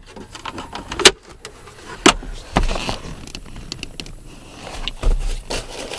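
Handling noise: scattered clicks and knocks, the two sharpest about one and two seconds in, with a low rumble near the end.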